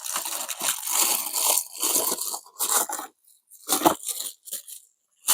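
Watch packaging being handled and opened by hand, in a run of irregular rustling and scraping bursts with short pauses.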